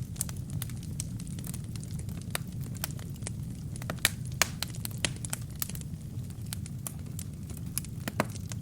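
Wood fire crackling in a fireplace: irregular sharp pops and snaps over a steady low rumble of burning, with a louder pop about four seconds in and another near the end.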